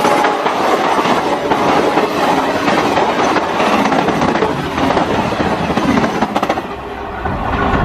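Train passing at speed, its wheels rumbling and clattering over the rails in a steady rush of noise that eases off near the end.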